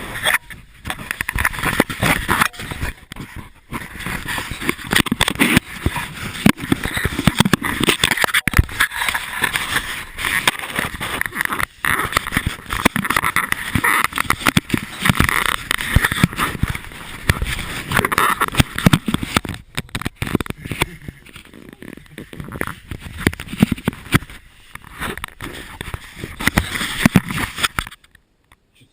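Continuous scraping and rustling with many irregular knocks, stopping shortly before the end: clothing and gear rubbing against rock as a person crawls through a narrow cave passage.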